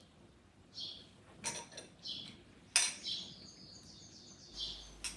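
A small bird chirping over and over, a short high call about once a second, with a brief burst of twittering just after the middle. A sharp clink near three seconds in, the loudest sound, comes from a glass of iced tea being lifted from the table.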